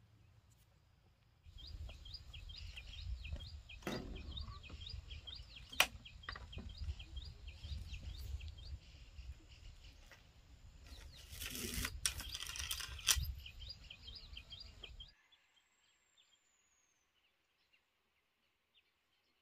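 Small birds chirping rapidly and repeatedly over a low rumble of wind on the microphone, with a few sharp knocks. The sound then cuts off suddenly to near silence, leaving one faint falling bird whistle.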